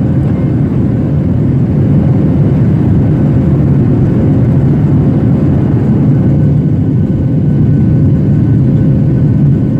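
Steady, loud rumble of engine and airflow noise inside the cabin of a Boeing 737-800 with CFM56-7B turbofans.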